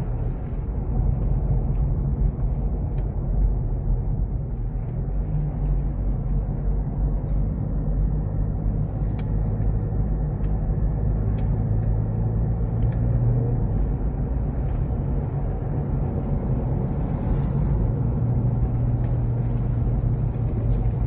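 Car engine and tyre noise heard from inside the cabin while driving: a steady low drone that swells a little in the middle and near the end.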